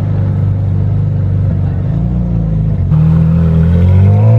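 A car engine runs at a steady low note. About three seconds in it grows louder, and near the end its pitch climbs steadily as the car accelerates.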